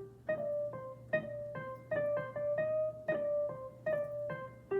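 Roland FP-30 digital piano playing a classic electric-piano voice: an improvised melody of single notes, about two or three a second, each one struck and then fading.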